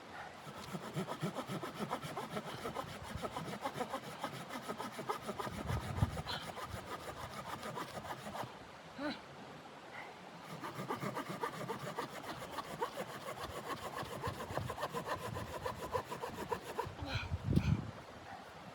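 Hand saw cutting through wood in quick rasping strokes, in two runs with a short pause in the middle, and a heavy thump near the middle and another near the end.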